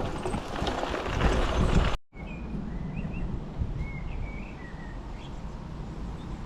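Outdoor noise that cuts off abruptly about two seconds in, followed by a low background rumble with birds chirping several times.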